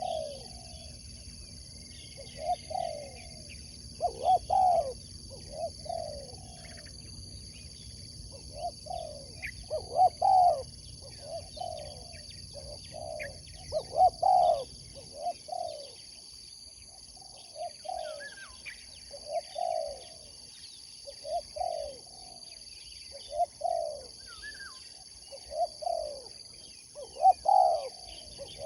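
Spotted dove (tekukur) cooing its song over and over, short phrases of two or three low, rounded coos every couple of seconds, with faint chirps of small birds behind it.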